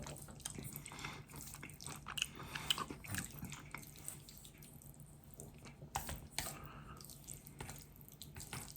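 Faint wet mouth sounds of a person eating noodles: chewing and small smacks, heard as scattered short clicks with a quieter stretch in the middle.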